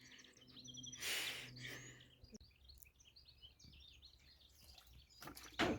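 Small birds chirping steadily in the background, with a short burst of rustling noise about a second in and a brief loud knock-like sound near the end.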